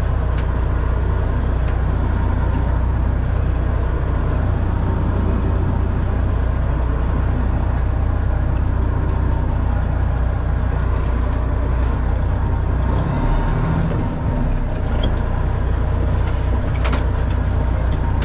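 Semi truck's diesel engine idling steadily, with a few light clicks and knocks over the top.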